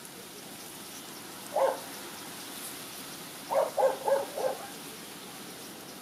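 A bird's low hooting calls: one note, then a quick run of four notes about a third of a second apart, over a steady outdoor hiss.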